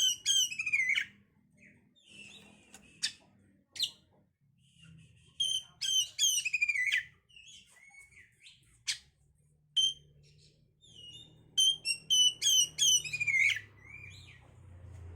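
Oriental magpie-robin singing: bursts of loud, varied whistled phrases with quick falling notes, three main bursts with single short calls between them.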